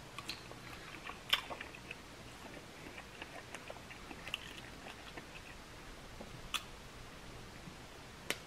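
Close-mouth chewing of butter-dipped crab meat: soft wet smacks and small clicks, with a few sharper clicks, the loudest about a second in.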